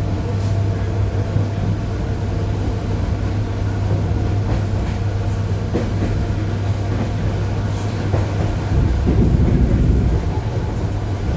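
ED9E electric train heard from inside, with a steady low electrical hum and a light mechanical noise. A heavier low rumble builds about nine seconds in.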